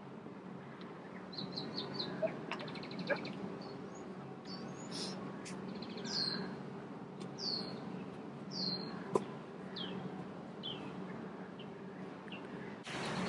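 Garden birds chirping: a string of short, high, falling whistled calls a second or so apart, with a brief rapid trill about three seconds in, over a steady low background hum. A single sharp click stands out about nine seconds in, and a louder hiss of background noise comes in near the end.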